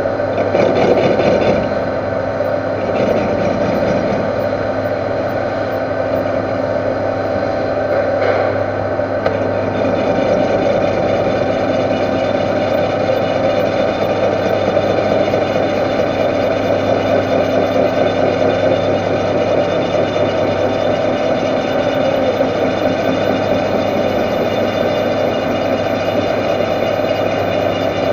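Metal lathe running steadily while machining a welded steel spindle tube, a constant motor hum with cutting noise over it.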